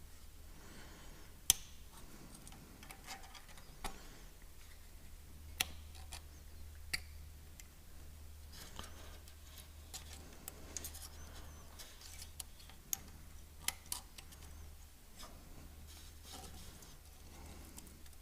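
Faint, scattered clicks and light scrapes of a small hand tool picking at an O-ring in the tach drive bore of a Farmall 806 tractor, a few sharp ticks spread irregularly over a low steady hum.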